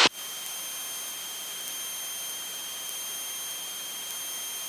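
Steady hiss with faint, thin high-pitched whines on a Cessna's intercom audio feed between transmissions.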